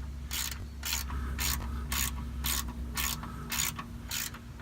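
Hand ratchet and socket working a shock absorber mounting bolt loose, clicking in short strokes about twice a second.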